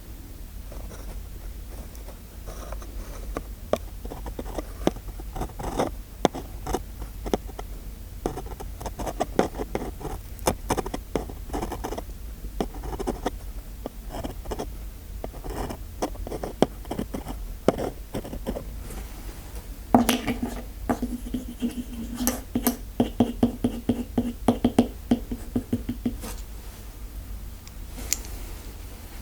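Close-miked ASMR scratching, scraping and tapping, many small irregular clicks. About two-thirds of the way through, a low buzzing tone with rapid clicking runs for several seconds, then stops.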